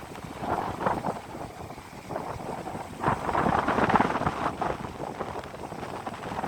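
Wind buffeting the microphone in gusts, strongest about three seconds in.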